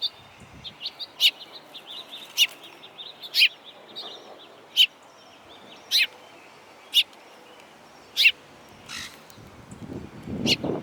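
Songbirds calling: sharp, short chip notes repeated about once a second over faint high twittering. A low rumbling noise builds near the end.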